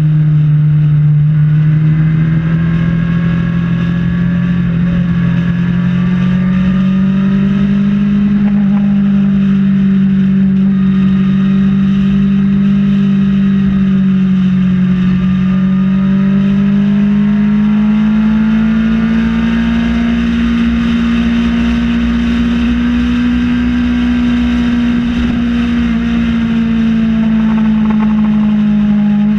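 Kawasaki ZX-6R sport bike's inline-four engine running at a steady highway cruise, its note slowly climbing and easing in pitch with small throttle changes, highest about two-thirds of the way through.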